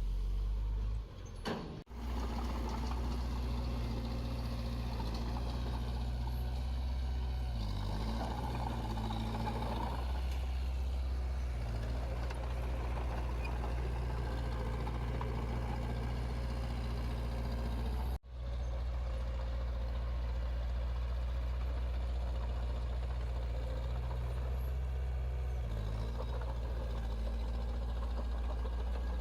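Heavy-equipment diesel engine running steadily, with a brief shift in pitch about eight to ten seconds in. The sound drops out abruptly for a moment twice.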